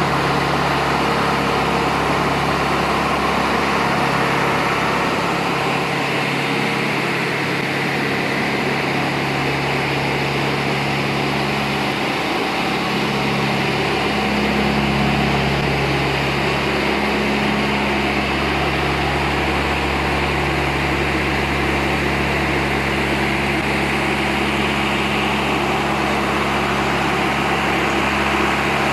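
Compost turner's engine running steadily at a constant speed, with a steady broad mechanical noise over it.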